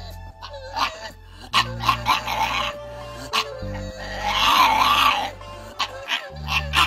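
Background music with a steady bass line, with a dog's barks and yips over it, loudest about four to five seconds in.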